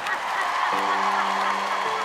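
Audience cheering and applauding, with a held low chord of show music coming in under it less than a second in.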